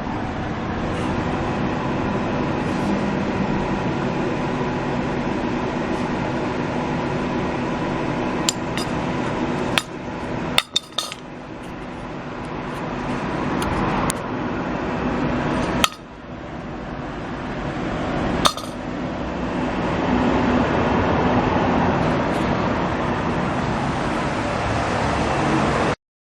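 Steady mechanical running noise with a faint hum, broken by a handful of sharp clicks and knocks, the loudest a little past the middle. After each click the noise drops and gradually swells back up.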